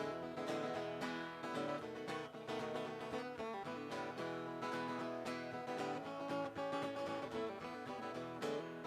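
Acoustic guitar strummed in a country song's instrumental break between sung verses.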